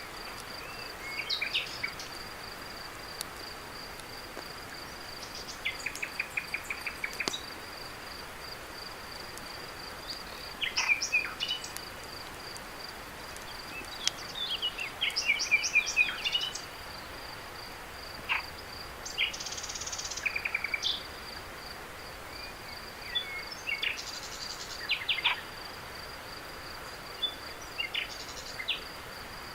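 Night insect chorus: a steady high, pulsing cricket trill. Over it come short bursts of chirping calls and quick rattling pulse series every few seconds.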